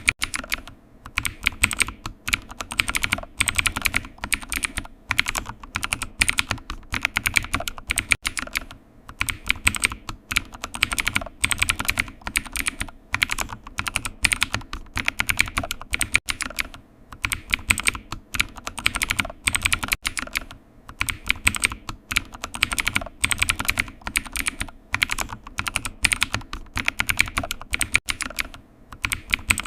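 Typing on a computer keyboard: rapid runs of keystrokes broken by brief pauses every second or two.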